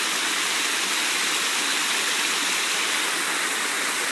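Small waterfall rushing: a steady, even roar of falling water.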